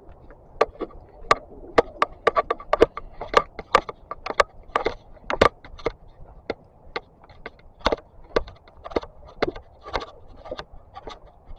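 Walking footsteps on a path, a sharp click or knock roughly twice a second, uneven in strength.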